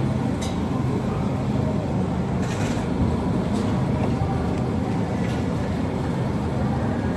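A steady low rumble with a few faint higher clicks and rustles over it.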